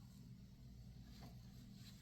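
Near silence: a steady low hum of room tone, with two faint short high sounds, one about a second in and one near the end.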